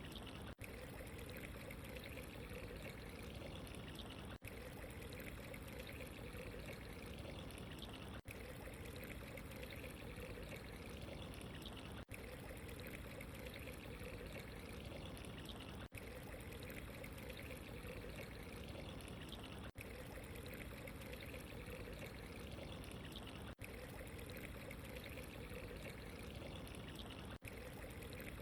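Steady running water, trickling and pouring without a break, with a very short dip in level about every four seconds.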